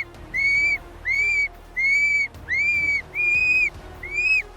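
A bird's whistled call: a series of seven short, clear notes, each slightly arched in pitch, repeated evenly at about one every 0.7 seconds.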